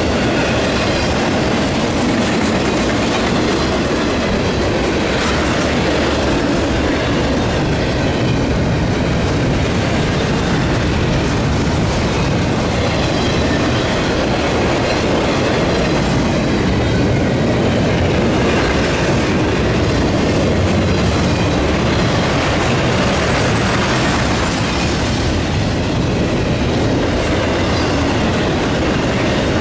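Cars of a Norfolk Southern intermodal freight train rolling past at trackside, a steady loud rumble with the clickety-clack of wheels over rail joints.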